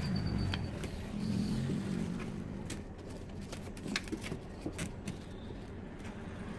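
Scattered small clicks and taps, like tools and small parts being handled on a workbench, over a low steady rumble.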